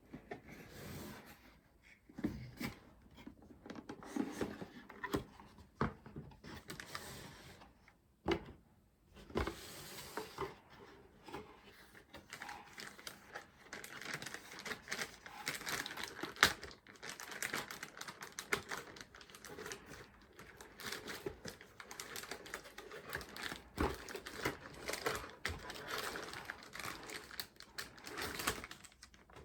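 Crinkling and rustling of packaging with many light, irregular clicks and taps as a PC motherboard is handled and unpacked. One sharper click stands out about halfway through.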